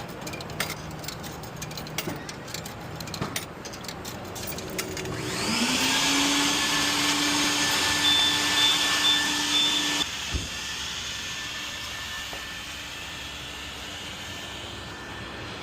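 Vacuum motor switching on with a rising whine as it spins up about five seconds in, running steadily, then shutting off about ten seconds in with a thump just after. Scattered clicks and rattles come before it starts.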